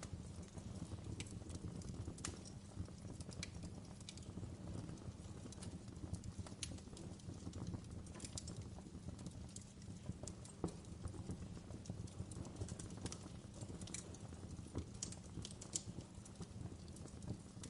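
Wood fire crackling in a fireplace: a steady low rumble of burning logs with irregular sharp pops and snaps, a few of them louder than the rest.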